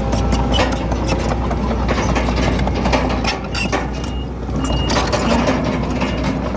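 Diesel engine of a Komatsu D31PX crawler bulldozer running under load, with steady metallic clanking and rattling from its tracks; it eases off briefly a little past halfway.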